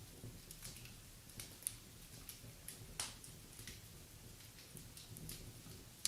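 Wood fire burning in a fireplace, crackling with irregular small snaps and pops over a faint low rumble, the sharpest pops under two seconds in and about three seconds in.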